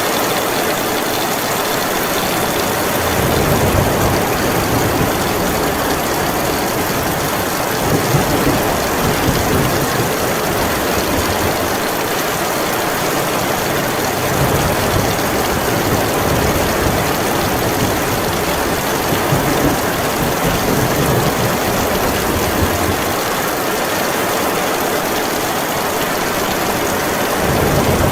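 Heavy rain falling steadily as an even hiss. A low rumble lies under it for most of the middle and fades out a few seconds before the end.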